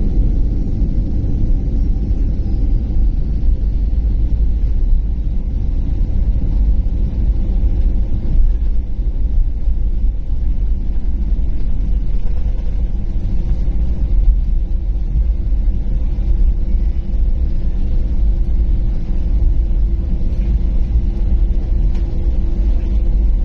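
Airliner cabin noise heard from inside the cabin: a steady low rumble of engines and airframe with a faint hum over it.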